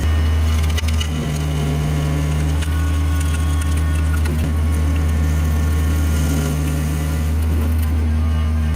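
A heavy machine's engine running steadily under load, with scattered cracks and knocks.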